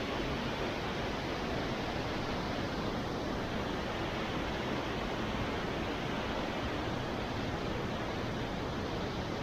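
Steady, even rush of a large waterfall's water falling onto rock and into its plunge pool.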